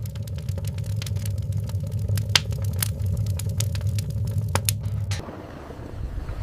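Wood fire crackling, with sharp irregular pops over a low steady rumble; it cuts off about five seconds in and a softer hiss follows.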